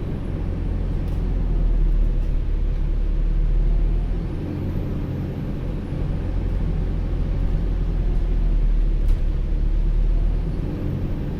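ADL Enviro400H City hybrid double-decker bus drivetrain running on the move, heard inside the bus: a steady low hum with a high, vacuum-cleaner-like 'hoover' whine that rises and falls three times as the bus pulls away and slows.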